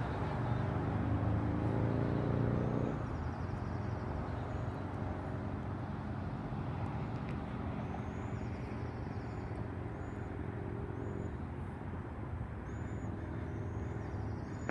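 Steady road-traffic rumble, with a passing vehicle's engine hum fading out about three seconds in.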